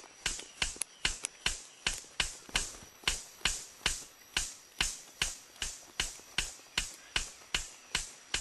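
Male superb bird of paradise's courtship display: sharp, evenly spaced clicks, a little over two a second.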